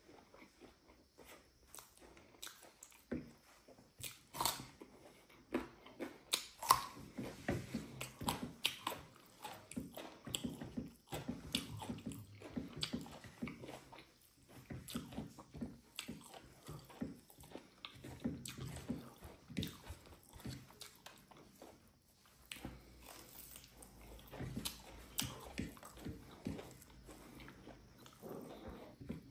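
Close-miked chewing and biting of fried pork with rice: irregular wet mouth clicks and smacks, a few to several a second, with brief pauses around halfway and again a little later.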